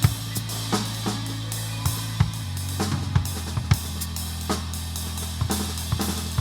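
Drum kit played in a loose improvisation: scattered kick, snare and cymbal hits over a held low note that steps down in pitch about a third of the way in.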